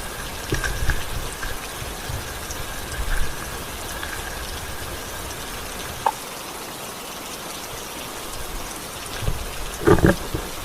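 Steady rain falling, with a few sharp knocks or thumps close by near the end.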